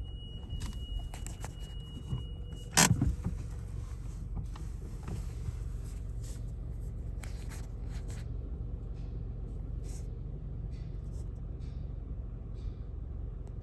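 Golf GTI idling, heard from inside the cabin as a steady low rumble. A steady high electronic tone sounds for the first few seconds and stops at a single sharp thump about three seconds in, followed by light scattered clicks.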